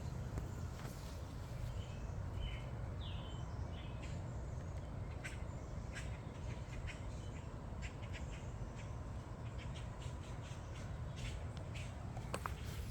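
Outdoor ambience: a steady low rumble with a few short bird chirps a couple of seconds in, and scattered light clicks and rustles.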